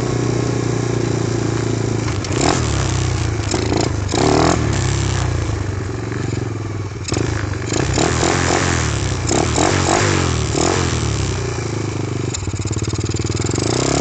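Apollo dirt bike's single-cylinder engine running at a fairly steady speed, its pitch shifting slightly a few times, with irregular knocks and rustles on the microphone.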